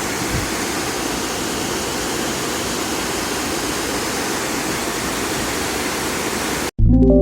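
Steady rush of flowing water that cuts off abruptly near the end, followed by music with sustained ringing tones.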